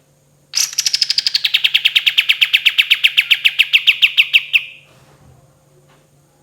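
Kapas tembak songbird singing one long, loud, rapid trill of about ten notes a second, which starts about half a second in, slides down in pitch and lasts about four seconds.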